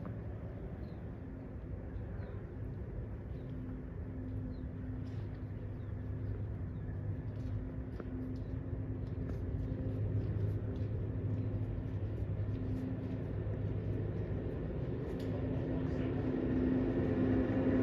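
An engine or motor running steadily with a low hum, growing gradually louder.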